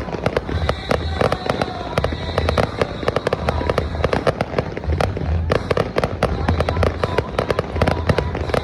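Fireworks going off in a rapid, irregular string of bangs and crackles, several a second, without a break.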